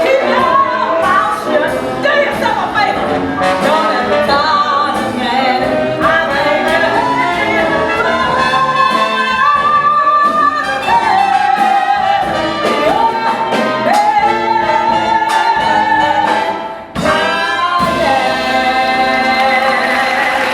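Live jazz band with brass playing behind a solo singer belting a blues number, ending on one long held note near the end.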